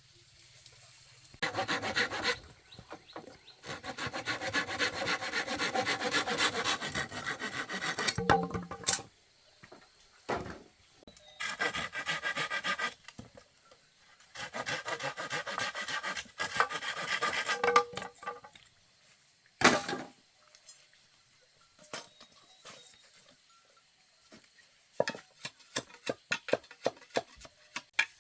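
Hand saw cutting through bamboo in four bursts of quick back-and-forth strokes, followed by a sharp knock and a run of light taps near the end.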